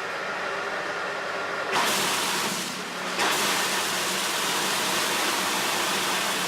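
A steady, loud rushing hiss with a faint steady hum beneath it. It jumps louder suddenly about two seconds in and again about three seconds in.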